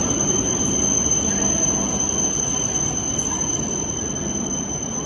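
Shinkansen train running along the platform tracks: a steady rumble with thin, high, steady whines on top, easing slightly in level toward the end.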